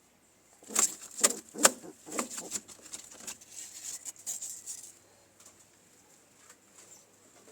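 Pigeons moving in a coop: several sharp claps about a second in, then a flurry of wing flapping and scuffling that dies down about five seconds in.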